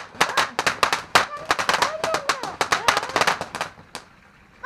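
Crackling firework going off in a rapid run of sharp cracks, several a second, ending abruptly about four seconds in.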